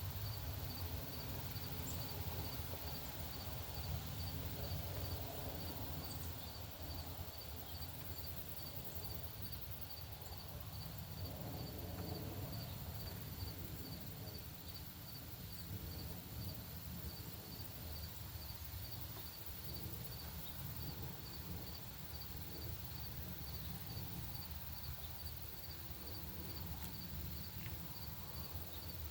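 Outdoor ambience: a faint, evenly repeated high-pitched chirp, about one to two a second, typical of an insect, over a low steady rumble.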